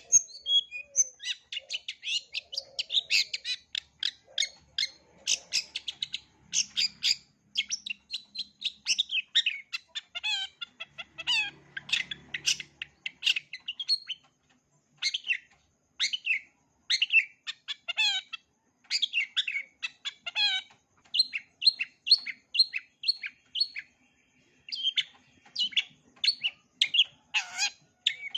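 Long-tailed shrike (cendet) singing a fast, varied song full of mimicked phrases of other birds: rapid chirps and quick sweeping whistles in close runs. The song pauses briefly about 14 s and 24 s in, and some lower, downswept notes come near the end.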